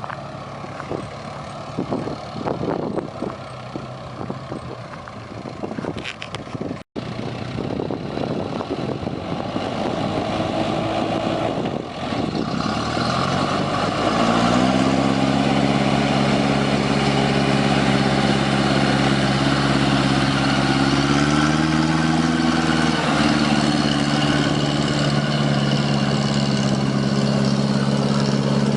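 Truck engine running unevenly, then picking up speed about halfway through and holding a steady, higher drone, with a further small rise and a brief dip later on.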